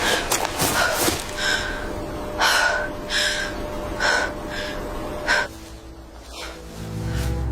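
A series of short, harsh animal calls, about one or two a second, that stop about five and a half seconds in. Low, held music tones follow near the end.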